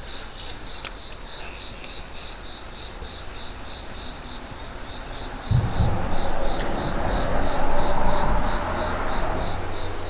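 Insects chirping steadily: a continuous high trill with a second, pulsing chirp repeating about three times a second. A low rumble and hiss starts about halfway through and grows louder.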